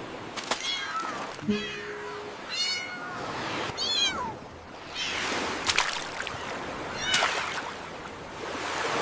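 Several high-pitched kitten mews, short calls that fall in pitch, in the first half, over ocean surf that swells and fades in washes. A few sharp clicks are scattered through it.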